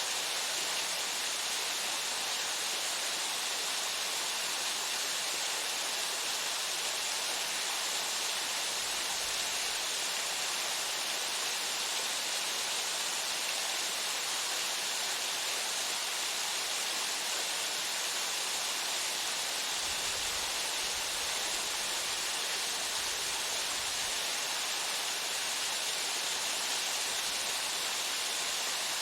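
Waterfall pouring steadily: an even, unbroken rush of falling water with a bright, hissing edge.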